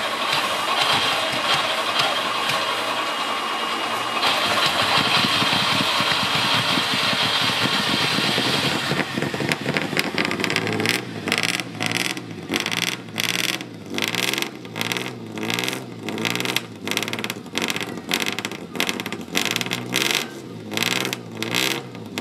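Fiat Dino's Ferrari-designed V6 running after being flooded, at first steady, then from about nine seconds in surging up and down in a regular rhythm a little more than once a second as it coughs back to life.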